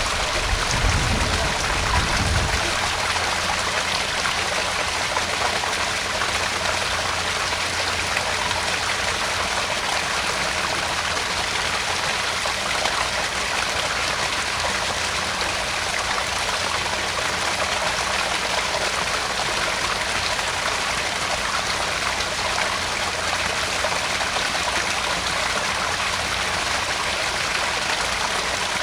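Small garden pond waterfall: water steadily splashing and trickling into the pond, with a brief low rumble near the start.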